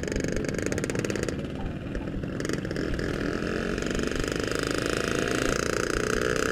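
Yamaha RX-King's single-cylinder two-stroke engine running under way at a steady pace, picking up a little in loudness and pitch over the second half.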